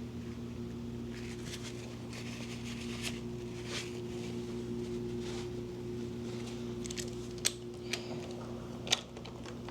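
Small metallic clicks and ticks of hand tools tightening the oil filter cover on a 2024 Yamaha YZ250FX, with a few sharper clicks in the last few seconds, over a steady low hum.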